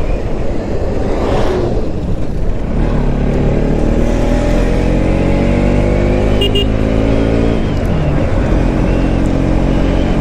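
Motorcycle engine running while riding, its note climbing slowly and then dropping about three-quarters of the way through, under a steady rush of wind noise.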